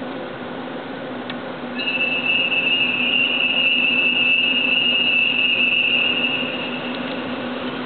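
Freight train hauled by a DD51 diesel locomotive, with a steady low hum throughout. About two seconds in, a loud, high, steady squeal of the wagons' wheels on the rails starts and lasts about five seconds before fading.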